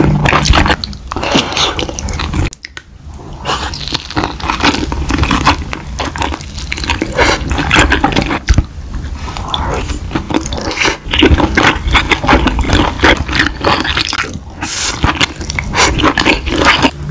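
Close-miked eating sounds: wet chewing and biting of spicy-sauced pen-shell clam meat, with chopsticks scraping the shell. The sounds break off briefly about two and a half seconds in, then resume.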